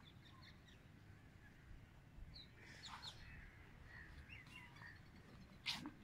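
Faint, scattered bird chirps, short and high, with a single soft knock near the end.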